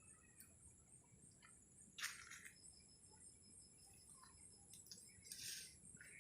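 Faint, high insect chirring that pulses steadily about four times a second. Soft rustles and clicks come and go, with a brief louder rustle about two seconds in and another a little after five seconds.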